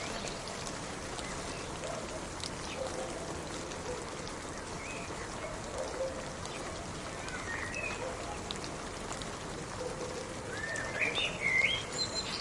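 Steady rain falling, with a bird chirping a few times over it, the chirps loudest near the end.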